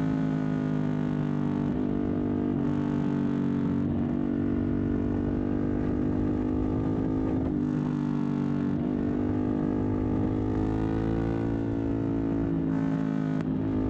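Motorcycle engine running at fairly steady revs under way, its pitch dipping and changing briefly a few times.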